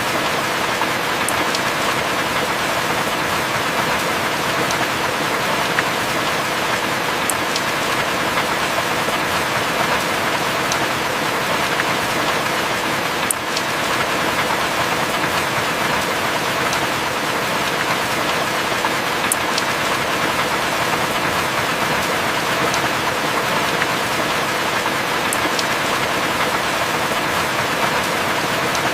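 Heavy rain falling steadily, with a few sharp drip ticks now and then; no thunder is heard.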